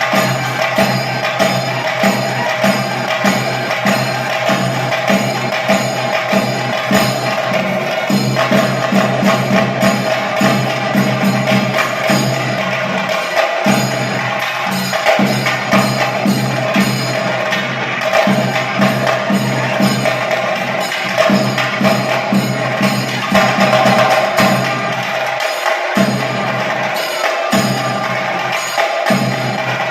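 Chenda drums and small hand cymbals playing a fast, even beat, over a steady held tone underneath, as ritual percussion for a Muthappan vellattam.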